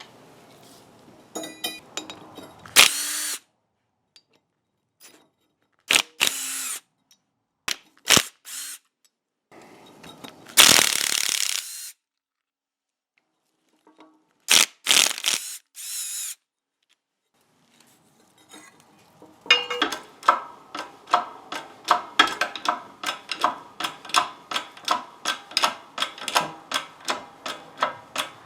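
A power tool runs in short bursts, about six of them, each a second or two long. From about two-thirds of the way in, steady rapid mechanical clicking follows, about four clicks a second.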